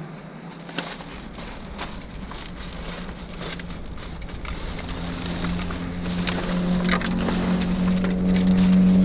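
A vehicle engine running with a steady hum that grows louder through the second half, over scattered clicks and rustles of items being handled.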